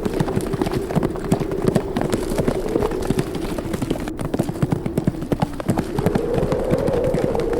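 Hoofbeats of a herd of horses galloping, a dense, irregular drumming of many hooves. Under them a steady wind howl sinks a little in pitch and rises again near the end.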